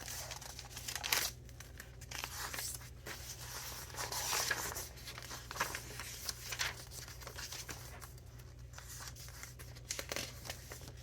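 Pages of a thick handmade junk journal being turned and handled: irregular paper rustling, crinkling and swishing of heavy dyed papers, pockets and ephemera.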